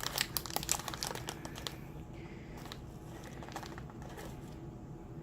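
Plastic packaging crinkling with light clicks while a scoop of baking soda is measured out, busiest in the first two seconds and then quieter handling.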